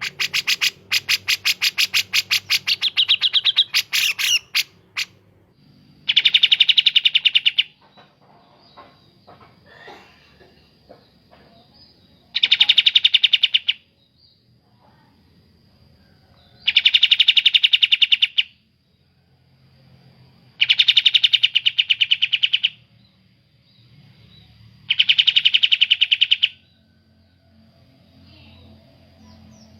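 Kapas tembak and cucak jenggot bulbul song, the kind of recording played to train cagebirds. It opens with a fast run of repeated chirps for about five seconds, followed by five short, rapid trills spaced about four seconds apart.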